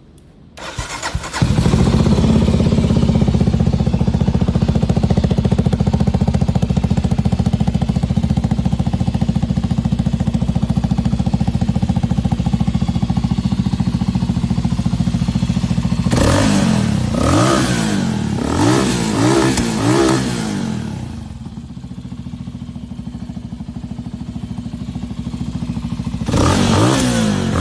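SWM 400 motorcycle engine started up about a second in, then idling steadily. From about sixteen seconds it is revved several times, with the pitch rising and falling on each blip. It settles back to idle, then gets one more rev near the end.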